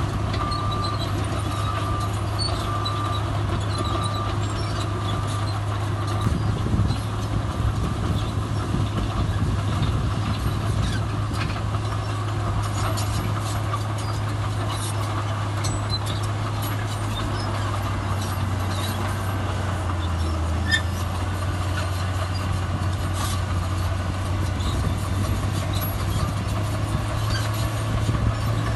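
Heavy diesel earthmoving machinery, a bulldozer and a dump truck, running steadily. A reversing alarm beeps a little faster than once a second until about six seconds in, after which only the engines are heard.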